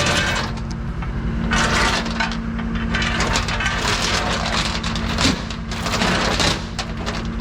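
Tie-down chain rattling and clanking in repeated bursts as it is handled and hooked on the rollback deck, over a steady idling engine.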